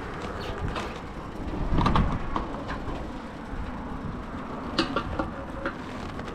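Motorcycle running at low speed: a low rumble with scattered clicks and knocks.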